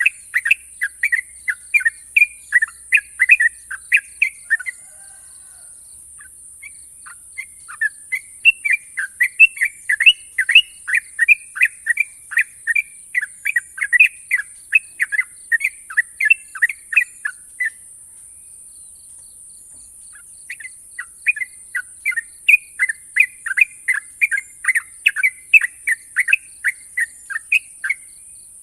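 Yellow-vented bulbul (trucukan) singing its 'ropel' song: long, rapid runs of short, sharp notes. The song comes in three bouts, stopping for a few seconds at about five seconds in and again near eighteen seconds in. A steady high hiss runs underneath.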